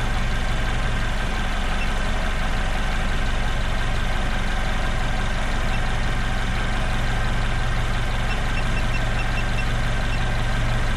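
Car engine idling steadily, a constant low hum. A few faint short high beeps come in the second half.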